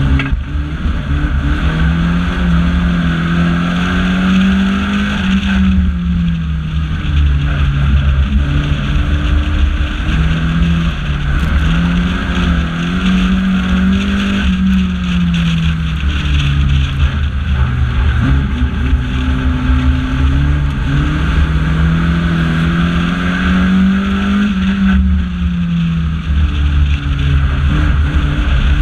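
Banger racing car's engine heard from inside its stripped cabin, the revs climbing, holding and dropping back in long swells three or four times as the driver accelerates and lifts, over a constant deep rumble of road and drivetrain noise.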